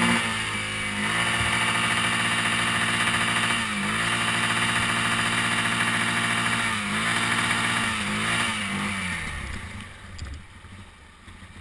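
Quad (ATV) engine held running under throttle on a steep descent, its pitch dipping and recovering several times, then dropping away about nine seconds in. The engine keeps threatening to stall.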